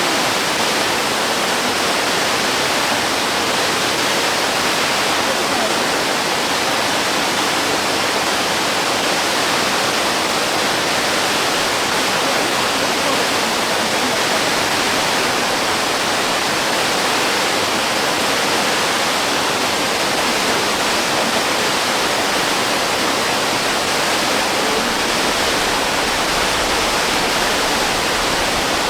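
Waterfall, its falling water making a steady, even rush.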